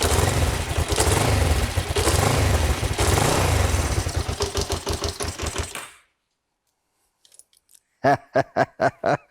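Kawasaki GPZ500S's parallel-twin engine running on choke from a cold start after years of standing. It swells a couple of times, then splutters and stalls about six seconds in. Near the end, a man laughs in short, even bursts.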